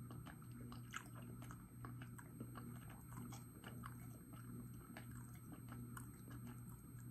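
A person chewing soft, mashed turkey-and-stuffing food with the mouth closed, close to the microphone: faint, irregular wet mouth clicks and smacks, several a second, over a low steady hum.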